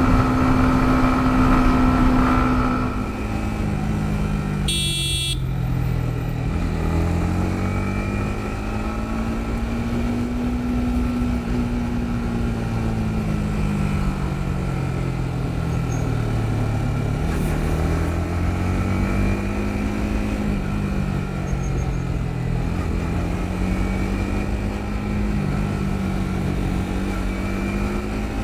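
Yamaha MT-15's single-cylinder engine running on the move. Its pitch holds steady at first, then rises and falls repeatedly as the throttle is opened and eased off, over steady road noise. About five seconds in there is a brief high-pitched sound.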